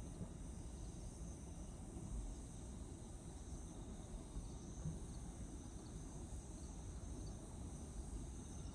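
Crickets trilling steadily in high-pitched bands, over a continuous low rumble.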